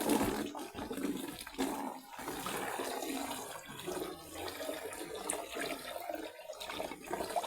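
Well water pouring and splashing from a bucket, in uneven gushes.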